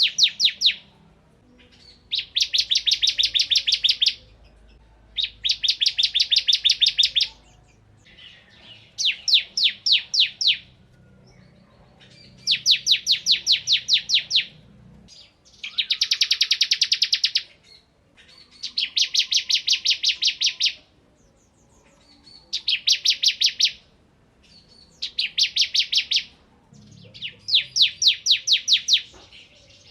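Bar-winged prinia (ciblek kristal) singing its fast machine-gun-like rattling trill, in about ten bursts of one to two seconds each with short pauses between them.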